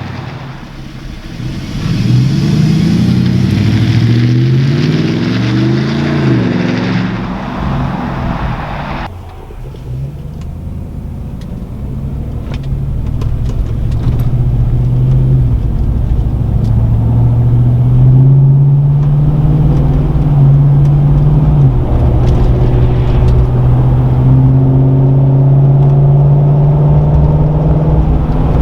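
2016 Chevrolet Silverado's 5.3-litre V8 exhaust revving, its note rising and falling for the first several seconds. After a cut, the exhaust runs under a steadier, slowly climbing load, dropping once in pitch about two-thirds of the way through before holding steady.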